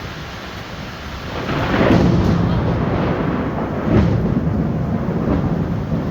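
Thunder rumbling over heavy rain. The rumble swells about a second and a half in, with a sharp crack about two thirds of the way through, and keeps rolling.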